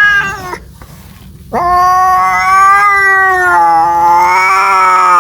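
Domestic cat yowling (caterwauling): a long drawn-out call ends about half a second in, and after a short pause a second long, wavering yowl begins about a second and a half in and carries on.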